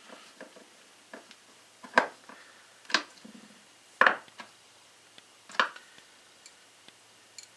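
Hand work on a chainsaw's plastic recoil starter cover as screws are run in with a screwdriver: scattered light ticks and four sharp knocks, the loudest about two and four seconds in.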